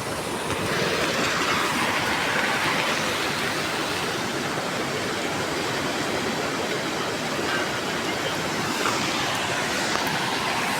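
Steady rush of a rain-swollen river in flood, a continuous roar of fast-moving water.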